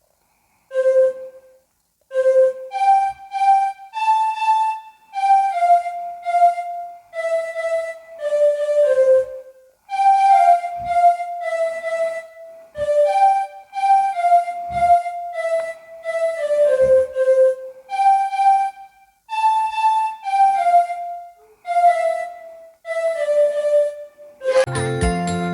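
Solo melody on a single flute-like wind instrument: a simple tune of short, separate notes, mostly in falling phrases. Fuller music with accompaniment comes in near the end.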